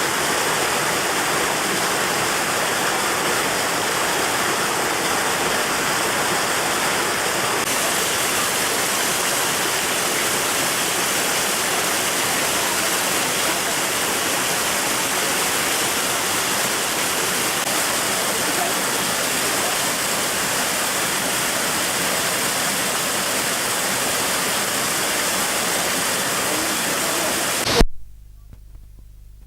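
Waterfall rushing in a steady, even roar of falling water; near the end it cuts off abruptly with a click, leaving only a faint low hum.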